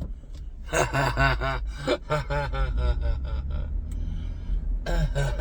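A man's wordless vocal sounds in short, quick, repeated pitched syllables, over the steady low rumble of the car's cabin.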